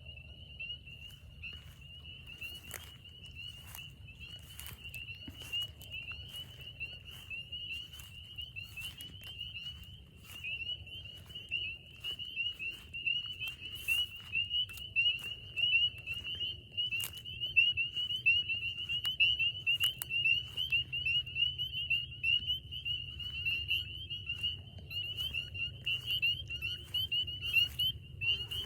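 A dense chorus of frogs giving rapid, high-pitched calls that merge into one continuous shrill band, growing louder partway through. Scattered clicks and rustles from close by are heard with it.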